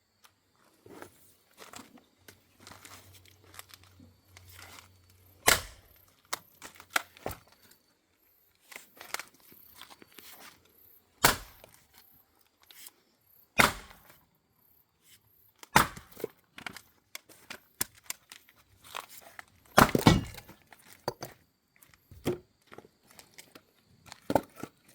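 Axe chopping and splitting firewood: about five loud, sharp strikes a few seconds apart, with smaller knocks between them.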